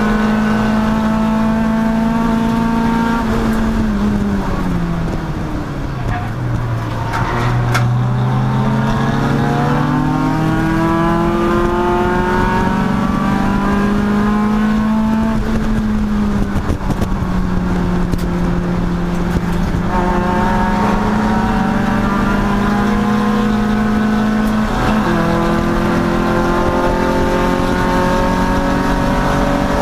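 Race car engine at speed on track. It holds a steady high note, then drops sharply about four seconds in as the car slows for a corner, and climbs back up as it accelerates out. After that it runs near steady with brief dips. A few sharp clicks come as it starts pulling away.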